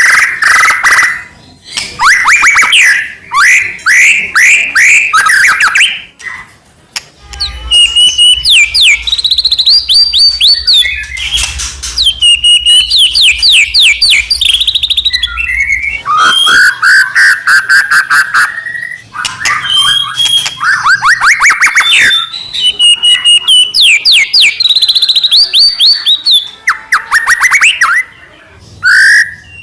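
White-rumped shama (murai batu) singing hard and almost without break: loud phrases of fast, repeated sweeping whistles and rapid trills, each a few seconds long and split by short pauses.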